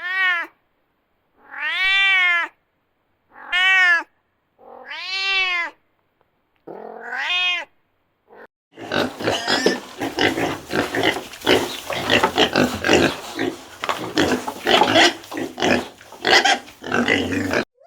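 A cat meowing five times, each meow rising and then falling in pitch, followed after about nine seconds by a dense, continuous jumble of short noisy animal sounds.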